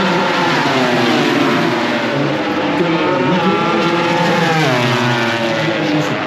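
Several MotoGP racing motorcycles running hard together, their engine notes rising and falling as the riders accelerate, shift gears and brake.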